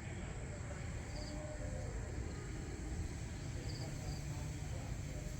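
Outdoor pre-dawn ambience: a steady low rumble, with a short high double chirp from a bird or insect repeating twice, about two and a half seconds apart.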